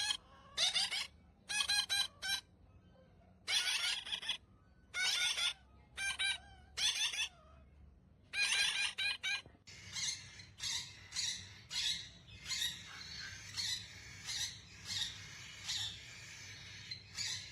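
Parrot calling in a series of short, shrill squawks for the first half. After that it gives quicker, shorter calls, about two a second.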